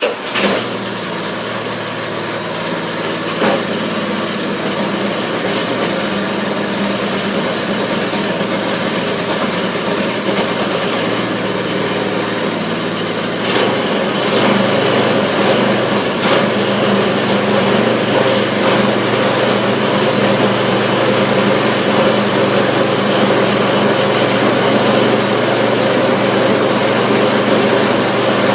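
Harbor Freight 6.5 hp single-cylinder small engine catching right at the start and then running steadily, a little louder from about 13 seconds in.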